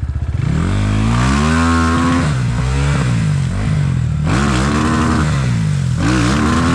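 Enduro motorcycle engine revved up from idle three times, its pitch rising and falling with each blip of the throttle.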